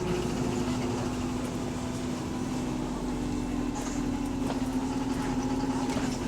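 Bus diesel engine idling steadily with a rapid, even knocking running through its note: a loud rod knock from a worn connecting-rod bearing.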